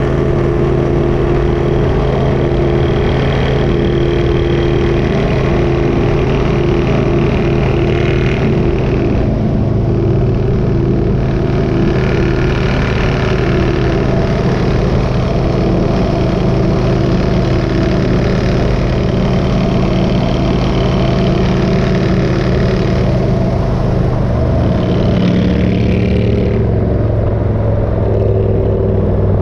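Motorcycle engine running steadily at cruising speed, with a rushing hiss that swells and fades over it.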